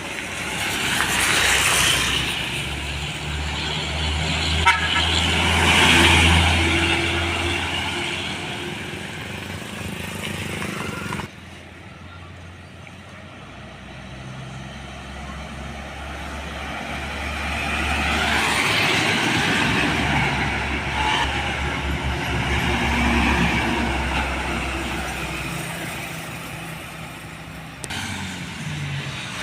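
Heavy trucks and buses driving past on a road, diesel engine hum and road noise swelling and fading, with a vehicle horn tooting. The sound changes abruptly twice, about a third of the way in and near the end.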